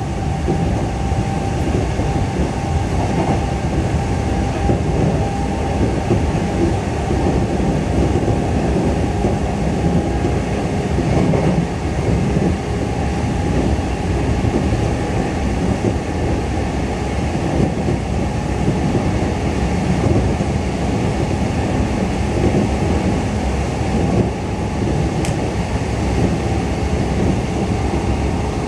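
JR E233 series 7000 subseries electric train running at speed, heard from inside the car: a steady rumble of wheels on rail, with a faint thin tone that fades out in the first few seconds and one small click near the end.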